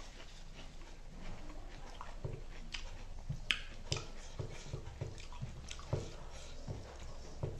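Close-miked eating sounds: chewing and lip-smacking on spicy chicken wings, with irregular wet clicks and smacks as the meat is pulled from the bone by hand.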